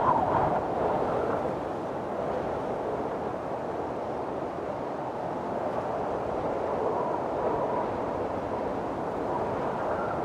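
Windstorm wind blowing hard, a gust at the start easing into a steady rush, with a faint thin whistle later on.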